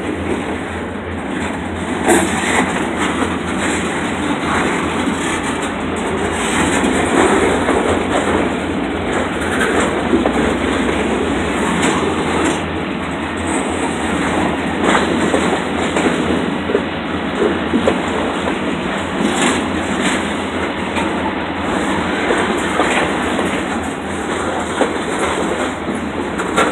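Freight train's bulkhead flatcars rolling past: a steady rumble of steel wheels on rail with occasional sharp knocks.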